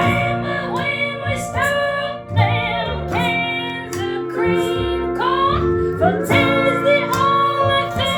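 A song: a singing voice carrying a sliding melody over instrumental backing.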